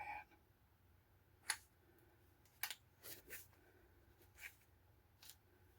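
Faint, separate mechanical clicks, about six at uneven intervals, from the adjusting handle of a large click-type torque wrench being twisted to its setting.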